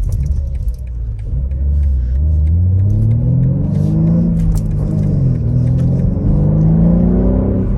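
2021 BMW M3's S58 twin-turbo straight-six pulling hard under acceleration with the manual gearbox. Revs climb for about three seconds, drop once around the middle as the driver shifts up, then climb again in the next gear.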